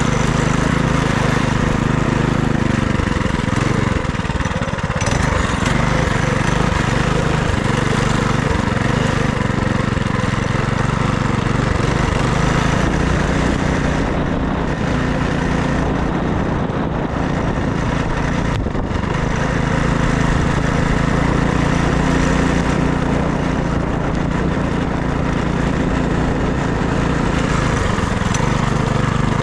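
FRP GMB100 minibike's small single-cylinder engine running under way. The engine note drops about four seconds in and again through the middle stretch, then picks back up as the throttle is opened and eased.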